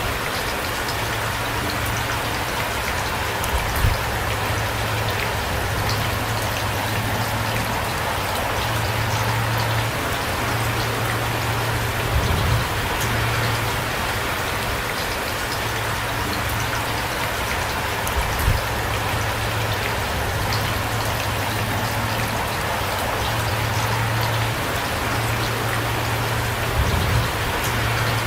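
Heavy rain falling steadily, with a low steady hum underneath. A few louder low thumps stand out, four times.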